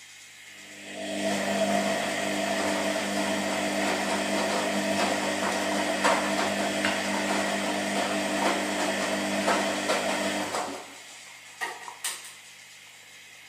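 Washing machine running with a steady motor hum and rattling for about ten seconds, then stopping suddenly, followed by two sharp clicks.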